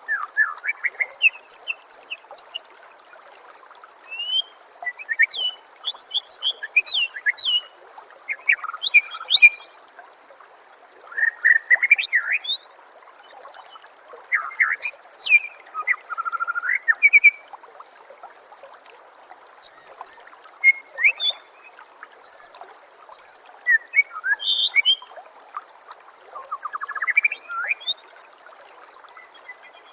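White-rumped shama (murai batu) singing in short bursts of varied whistles, sweeps and rapid trills, with pauses of a second or two between phrases. Under the song runs a steady trickle of water.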